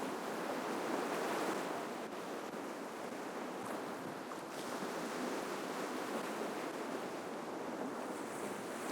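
Ocean surf washing onto the shore: a steady rushing hiss of breaking waves that swells slightly about a second in.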